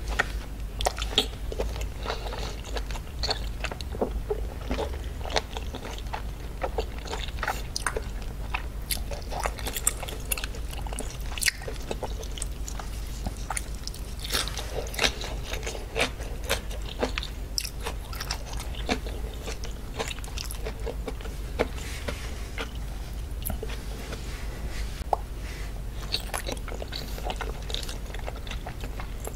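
Close-miked chewing and biting of raw seafood and pickled ginger: wet mouth sounds with many irregular small clicks and crunches, over a steady low hum.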